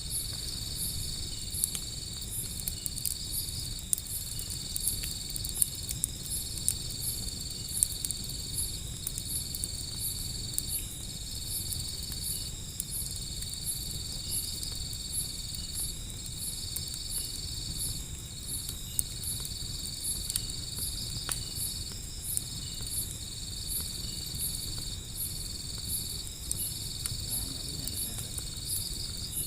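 An open wood fire crackling, with sharp irregular pops, over steady night insects: a continuous high trill that breaks briefly every couple of seconds and fast repeating higher chirps, typical of crickets.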